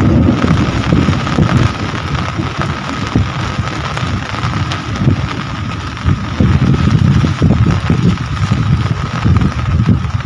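Rain falling steadily, under a loud, uneven low rumble of wind buffeting the microphone. A faint steady high tone runs beneath it.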